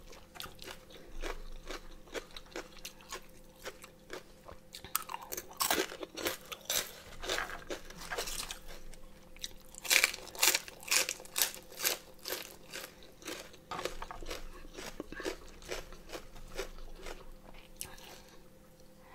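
A person chewing and biting crunchy food, boiled pig ear cartilage and a raw lettuce leaf: many short, sharp crunches in irregular runs, loudest a little past halfway when a lettuce leaf is bitten.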